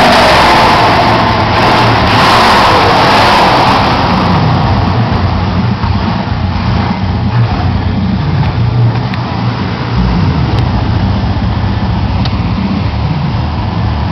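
Car engine revving loudly for the first few seconds, then dropping back to a rough, steady idle with a few light throttle blips.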